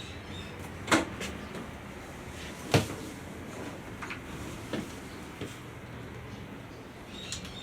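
A few separate light knocks and clicks, the loudest about three seconds in, over a steady background hiss.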